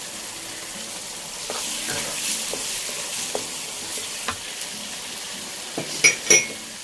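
Spice paste frying and sizzling in a nonstick wok while a wooden spatula stirs in onion and chillies, scraping and clicking against the pan. Two sharp clacks come near the end.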